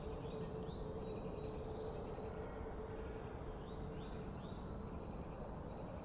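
Birdsong: repeated short, high chirps that slide down in pitch, over a faint steady background hiss. The last of a soft music tone fades out at the start.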